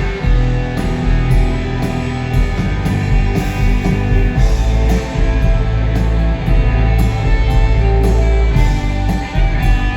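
Live rock band playing loudly, with electric guitars sustaining over bass and a steady drum beat.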